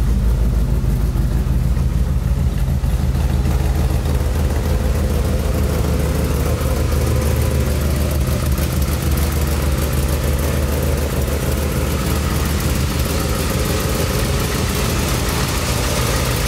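A 1964 Chevrolet Impala's engine idling steadily, with an even low rumble.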